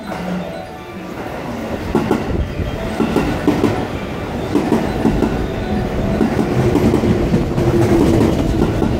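Electric commuter train running in along the platform, its wheels clattering over the rail joints in a steady rhythm of clicks, getting louder as the cars pass close by.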